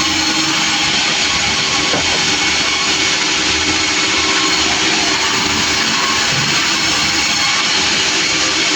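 Sawmill running steadily and unbroken, its saw cutting through a log.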